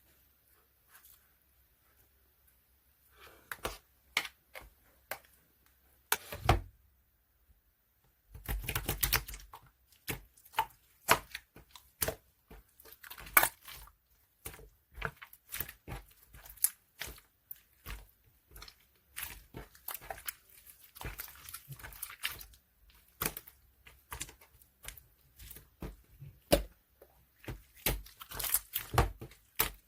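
Gold marbling slime being pressed, poked and stretched by hand: a rapid, irregular run of sticky clicks and pops, with a few longer tearing stretches, starting a few seconds in.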